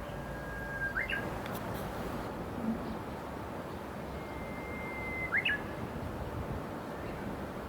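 Japanese bush warbler (uguisu) singing twice, about four seconds apart, over a steady low hiss. Each song is a long held whistle that ends in a quick rising-and-falling flourish.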